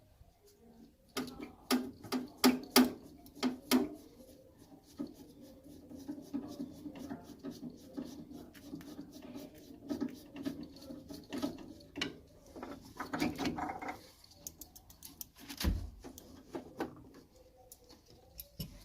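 Hand tools and metal boiler fittings clinking and knocking as they are handled, in quick runs of clicks near the start and again around thirteen seconds, over a faint low hum, with one dull thump near sixteen seconds.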